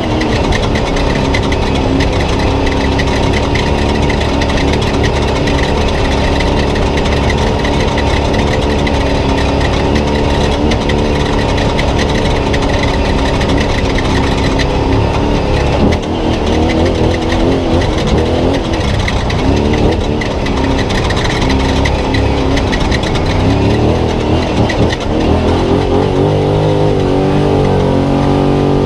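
Spec Trophy Truck's engine running hard at race speed, heard onboard over steady road and wind noise. Its pitch dips and climbs again about halfway through and once more near the end.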